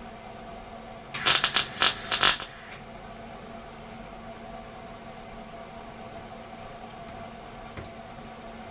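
MIG welder laying a tack weld on a door repair section: a loud, rapid crackle lasting about a second and a half, starting about a second in, over a steady low hum.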